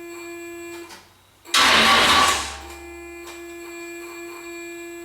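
Starter motor briefly bumping over an Oldsmobile 455 V8 for about a second, a loud burst; with no fuel in it the engine doesn't fire. A steady electrical hum with several overtones sounds before and after.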